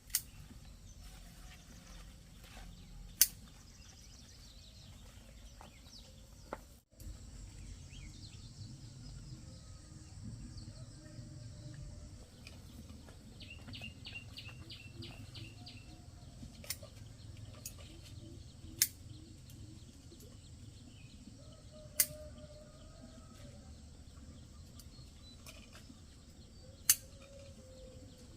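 Sharp snaps every few seconds as chayote vine tops are cut, over a low outdoor background hum. About halfway through, a bird gives a quick run of about eight short high notes.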